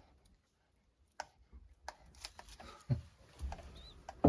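Scattered light clicks, taps and rustling from handling in a small pigeon loft, with a louder dull knock about three seconds in.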